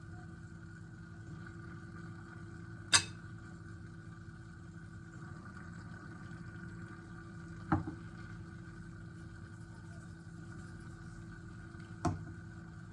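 Dishes and kitchenware clinking: three sharp clinks a few seconds apart over a steady low hum.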